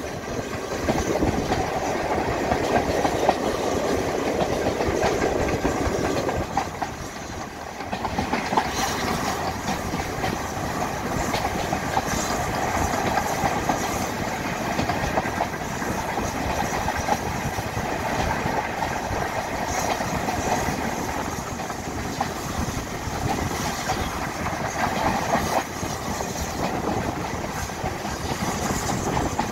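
Passenger coaches of a heritage train running along the track, wheels clicking and clattering over the rails with a steady running rumble and wind rush, heard from an open carriage window.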